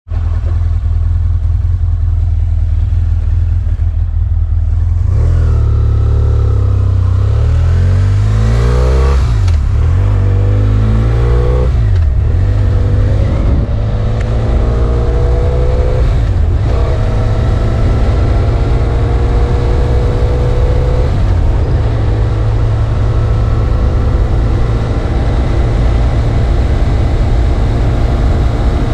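BMW F800 ST's parallel-twin engine accelerating through the gears while riding. The pitch rises and drops off sharply at each upshift, three times, then settles into a steady cruise.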